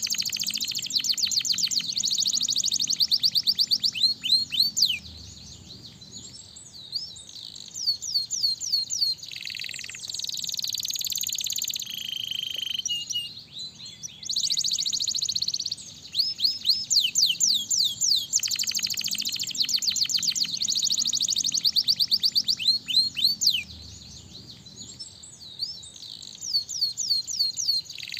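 Domestic canary singing: long runs of fast repeated chirps and rolling trills, phrase after phrase with short gaps between them.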